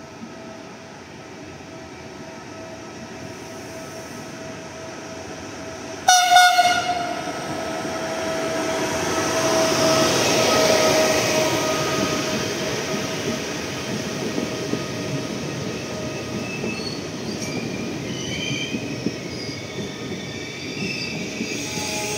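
Passenger train coming through a station, its hum growing as it nears. The horn gives one short blast about six seconds in, the loudest sound here. The coaches then roll past with a rumble that peaks soon after and settles into steady rolling noise, with thin wheel squeals in the later part.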